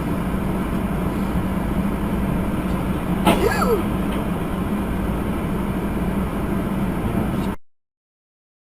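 Steady road and engine drone of a moving vehicle, as heard by a dashcam, with a sudden sharp noise about three seconds in that is the loudest moment. The sound cuts off abruptly near the end.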